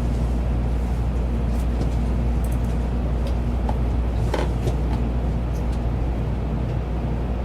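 Steady low rumble of a Nozomi Shinkansen running along the line, heard from inside the passenger car, with a few faint clicks and a sharper knock about four seconds in.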